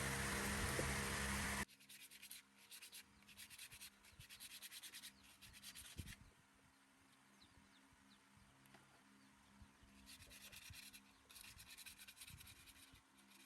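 A steady, loud machine noise cuts off abruptly about one and a half seconds in. It is followed by quiet, irregular rubbing and scraping strokes in short runs, like hand sanding or scrubbing a part.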